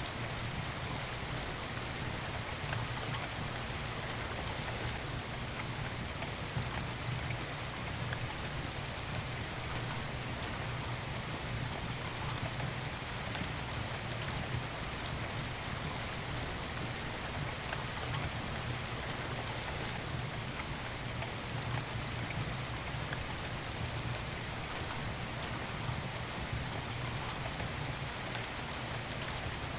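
Steady rain falling, an even hiss with a few faint sharp ticks scattered through it.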